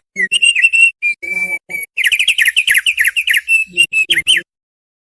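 Thick-billed heleia (opior paruh tebal) singing a lively, chattering phrase of short notes, with a fast run of quick down-slurred notes in the middle. The song stops abruptly about four and a half seconds in.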